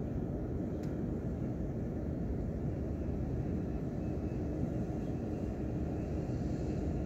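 Steady low rumbling noise used as white noise, even throughout with a faint steady hum in it.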